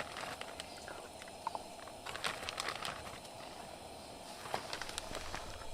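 Campfire crackling: scattered small pops and clicks, with a couple of faint bird chirps about a second and a half in.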